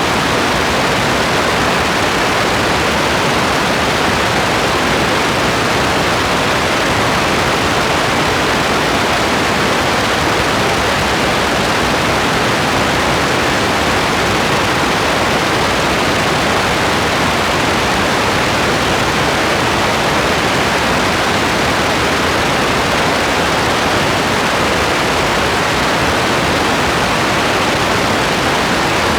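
Steady rain, an even, unbroken hiss with no single drops or changes standing out.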